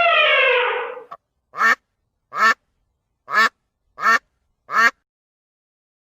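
A duck quacking five times in short, evenly spaced calls, after a long held tone that falls in pitch and dies away about a second in.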